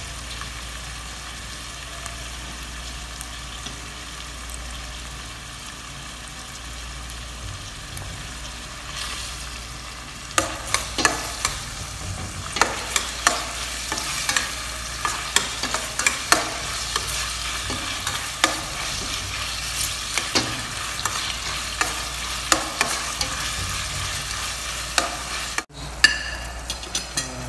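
Onion and garlic sizzling in hot oil in a stainless steel pot. From about ten seconds in, chicken gizzard pieces are stirred through with a metal spoon, many sharp clicks of spoon on pot over the sizzle.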